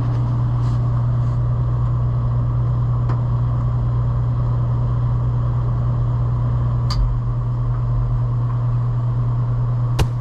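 A True two-door commercial refrigerator's condensing unit running: a steady, loud compressor hum with the condenser fan's whoosh over it. A couple of light clicks come near the end.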